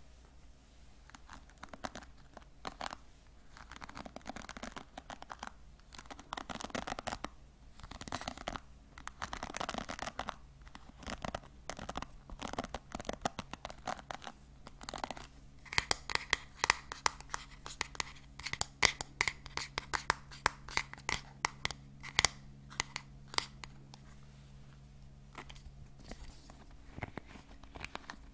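Hair brushes handled close to the microphone: swishing, scratchy strokes over the first half, then a fast run of sharp clicks and scratches from about halfway through, with a faint steady hum beneath.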